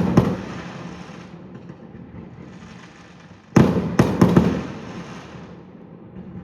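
Fireworks display with aerial shells bursting in quick clusters of loud bangs. One cluster comes right at the start and another of about three bangs a little past halfway, each trailing off in a fading rumble.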